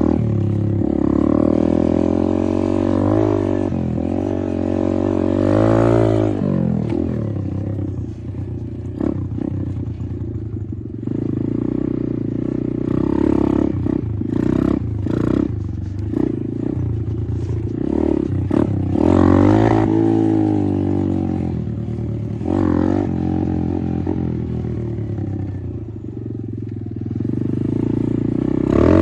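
Apollo RFZ 125 pit bike's small four-stroke single-cylinder engine being ridden, revving up and falling back again and again, with a few sharp clatters around the middle.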